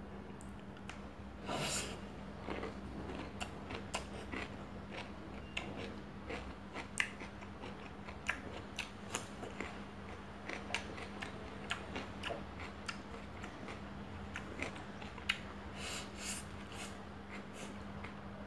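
Close-up eating sounds: chewing with many small, irregular wet mouth clicks while rice and chicken are eaten by hand. A steady low hum runs underneath.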